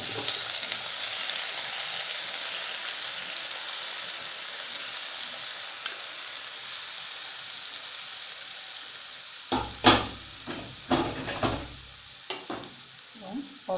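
Chopped tomatoes sizzling in hot oil in a frying pan, loud at first and slowly dying down. A few sharp knocks and clatters about ten seconds in.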